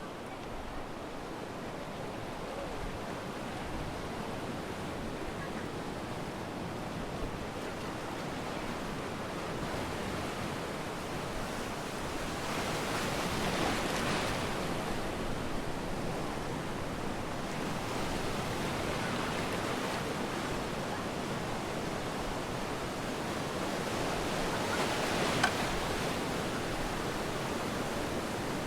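Surf breaking and washing up a sandy beach: a steady rushing wash that swells as waves break, once around the middle and again near the end. A brief sharp tick sounds near the end.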